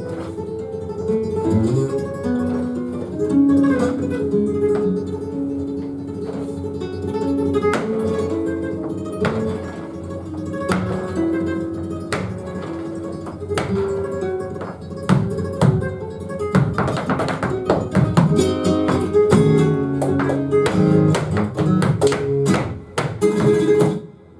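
Flamenco guitar playing the opening of a petenera, with plucked melodic phrases and, in the second half, rapid sharp strokes.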